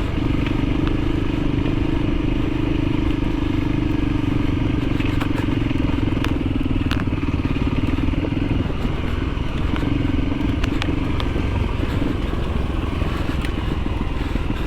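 Trail motorcycle engine running at a steady pace while riding a dirt track, with wind noise and scattered clicks of stones and rattling. The engine note drops back around two-thirds of the way through, as the throttle eases.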